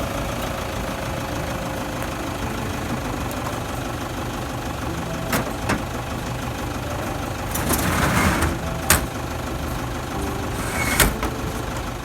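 A motor running steadily, with several sharp knocks and a louder noisy swell about eight seconds in. It cuts off suddenly at the end.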